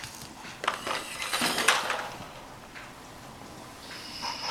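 Plastic Duplo train pieces clicking and clattering as they are handled, with several sharp knocks in the first two seconds and quieter handling after. A faint steady high tone comes in near the end.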